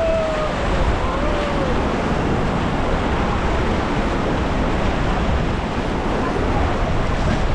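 Whitewater river rapids rushing steadily, with wind buffeting the microphone. A voice calls out faintly in the first second or so.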